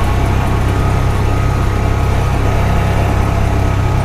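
Honda Pioneer 520 side-by-side's engine running steadily while driving, a constant low drone with no change in pitch.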